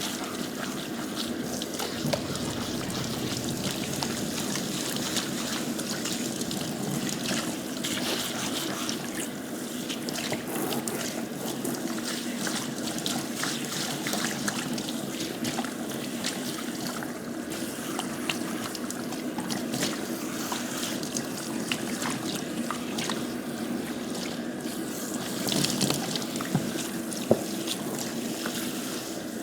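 Water running and trickling steadily, with faint clicks scattered through and one sharper click near the end.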